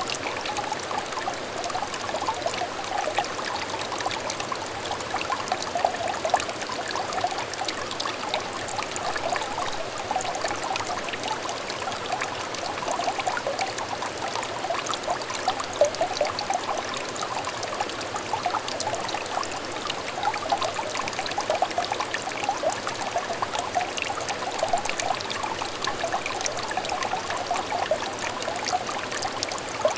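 A small clear stream trickling steadily, a dense, even run of small splashes and gurgles of water.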